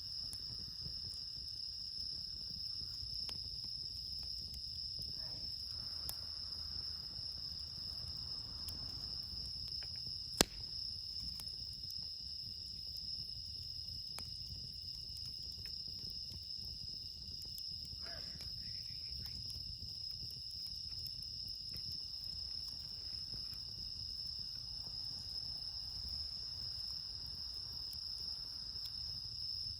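Night chorus of crickets, bell crickets among them, singing in several steady high tones that never let up, with one sharp pop about ten seconds in.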